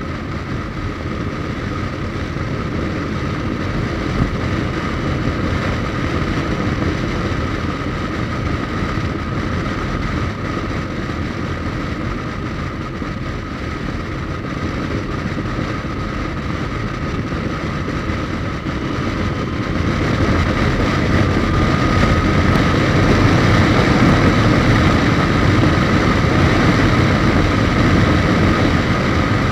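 Suzuki GSX1250FA inline-four motorcycle under way: a steady engine drone with road noise, growing louder about twenty seconds in.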